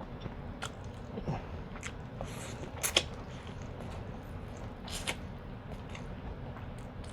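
Close-miked eating: wet chewing and mouth smacks, with a few sharp clicks, the loudest about three seconds in.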